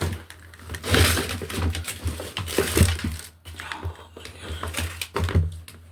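Irregular crinkling and rustling, like plastic packaging being handled, loudest about a second in and again near three seconds.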